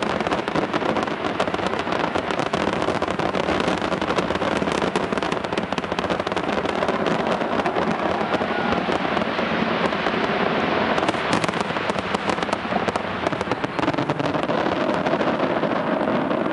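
Fireworks display: a dense, continuous crackle of many small bursts, with a cluster of sharper bangs about eleven seconds in.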